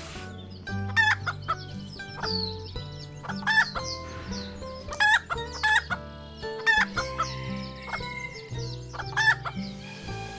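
Chickens clucking in short, sharp calls, repeated irregularly, over background music with steady low sustained notes.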